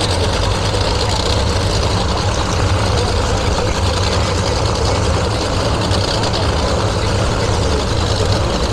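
Engine running steadily with a deep, low rumble, with no revving or sharp bangs.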